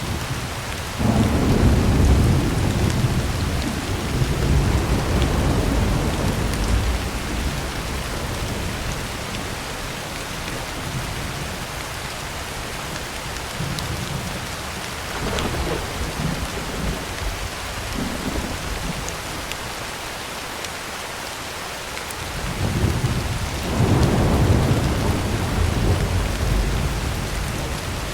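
Heavy rain drumming steadily on a tin roof, with rolls of thunder: a long low rumble about a second in, a shorter one around the middle, and another near the end.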